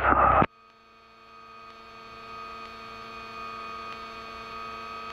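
Steady drone of a Grumman GA-7 Cougar's twin engines and propellers at low power, heard through the cockpit intercom as an even hum of many tones. It starts faint about half a second in and slowly grows louder.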